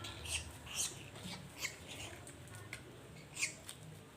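Herons squawking as they are fed: a handful of short, sharp, high calls spaced irregularly, the loudest about three and a half seconds in.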